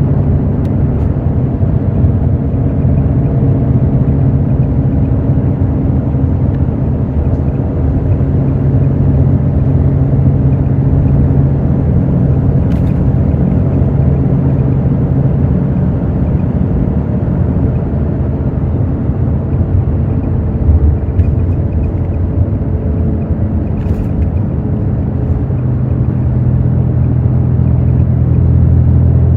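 Hino J08E-VD inline-six diesel engine of an intercity bus running under way, heard on board with road rumble. Its drone drops a little about halfway through and climbs again near the end, and two sharp clicks come through the hum.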